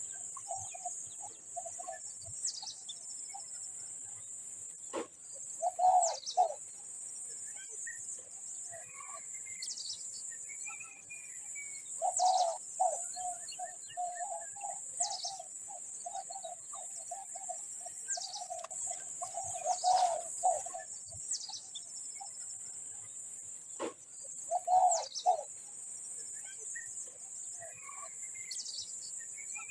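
Birds calling: a short high note sliding downward, repeated every few seconds, and bursts of low, rapid pulsed calls, the longest lasting about eight seconds midway. Under them runs a steady high-pitched hiss, with a couple of sharp clicks.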